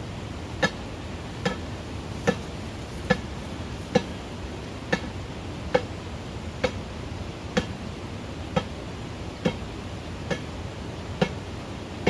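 Hand tool striking in a steady rhythm, a little more than once a second, each blow a sharp knock with a short ring, as when chopping or hammering.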